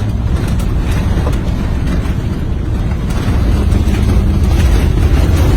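Bushfire front roaring around a fire truck: a loud, steady low roar with scattered crackles, growing slightly louder toward the end.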